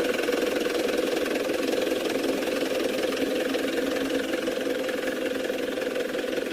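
Radio-controlled truck running with a steady mechanical hum.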